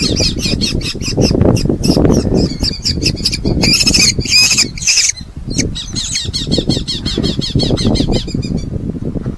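Red-footed falcons calling: a fast, continuous run of short shrill calls, with a few louder, harsher screams about four to five seconds in, stopping shortly before the end. A low rumble runs underneath.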